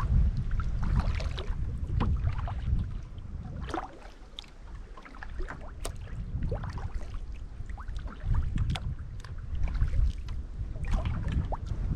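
Kayak paddle blades dipping and dripping in lake water, many small splashes, with wind buffeting the microphone in gusts that ease off about four seconds in and pick up again.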